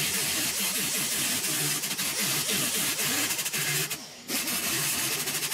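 Grinder with a 36-grit disc knocking down a fresh MIG tack weld on the steel inner-roof patch panel: a steady grind that lifts off the metal for a moment about four seconds in, then bites again.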